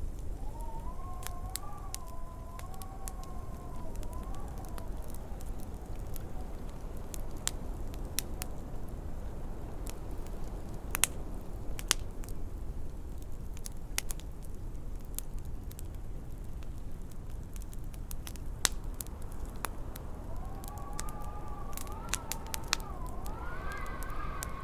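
Wood fire crackling with scattered sharp pops over a low, steady wind rumble. The wind howls in a wavering two-note whistle for the first few seconds, then again from about four-fifths of the way through, rising in pitch near the end.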